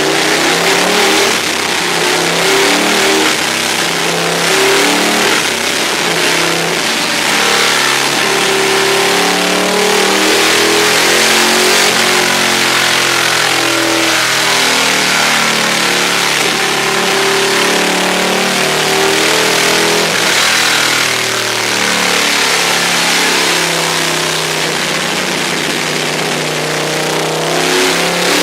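Ducati 1199 Panigale S's 1199 cc Superquadro V-twin running on a chassis dyno, revs rising and falling, being run in.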